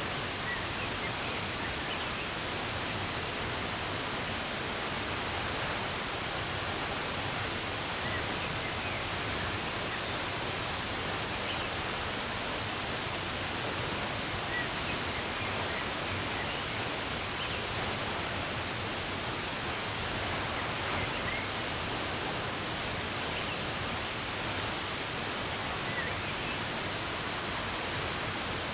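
Steady rush of running water, with a few faint, scattered bird chirps over it.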